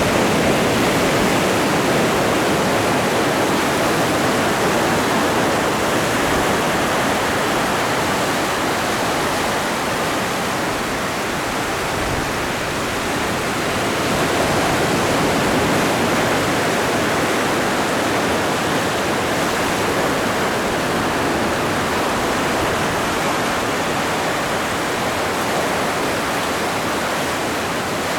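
Ocean surf washing in a continuous dense rush, with no separate breakers standing out; the level swells and eases slowly, rising a little about halfway through.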